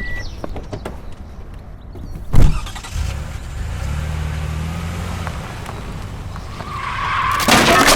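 A car: a loud thump about two and a half seconds in, then an engine running with a steady low hum, and a loud rushing noise near the end.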